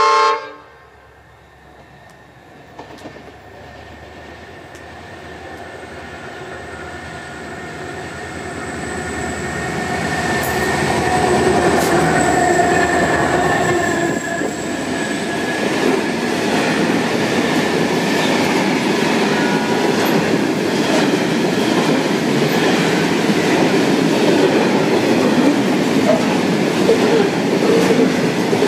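The end of a train's horn blast, then a diesel train approaching, its engine and wheel noise growing louder over about twelve seconds, and the carriages running past the platform with steady wheel-on-rail noise.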